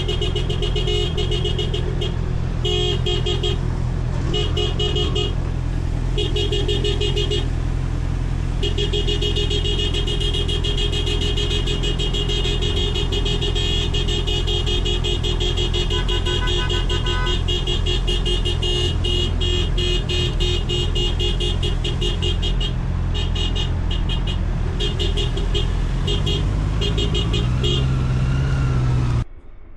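Honda CBR650R motorcycle engine running on the road, with a higher tone that cuts in and out. Its pitch rises near the end, then the sound stops abruptly.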